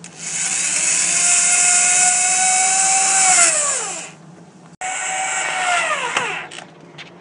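Power drill drilling into the wooden birdhouse roof in two runs. Each run holds a steady whine that falls in pitch as the trigger is let off: the first lasts about four seconds, and the second starts abruptly after a short pause and is shorter.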